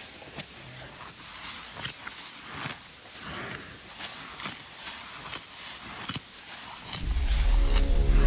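A steady high hiss with scattered small clicks and rustles. Music with low notes comes in about seven seconds in.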